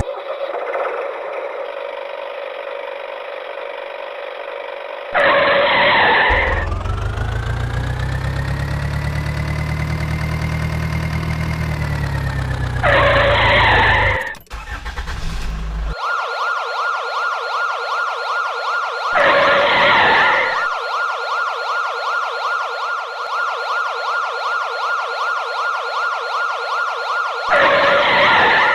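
Cartoon vehicle sound effects. An engine-like sound rises and then falls in pitch over several seconds, broken by short whooshing bursts; in the second half a steady, fast-pulsing tone plays, with two more bursts.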